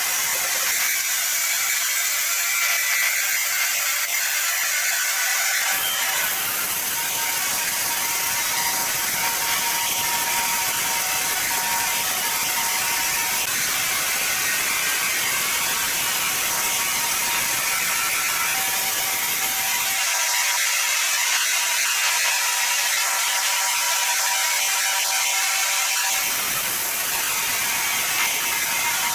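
Sawmill machinery running steadily with a dense mechanical noise. The low rumble drops away for a few seconds near the start and again about twenty seconds in.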